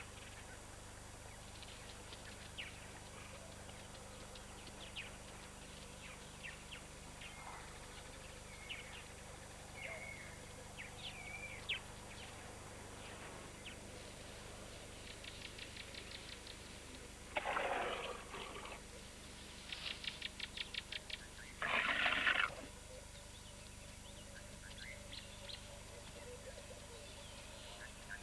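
Faint wildlife ambience: scattered short bird-like chirps and whistles, with two rapid pulsed trills. Two louder, harsh, noisy calls break in about two-thirds of the way through.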